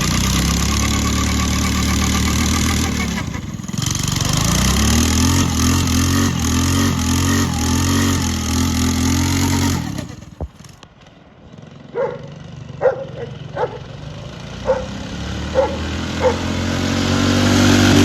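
A minibike's 196cc single-cylinder engine, governor removed, running and revving up, with its pitch climbing. It drops away about ten seconds in. After that a dog barks about seven times, and the engine sound builds again near the end.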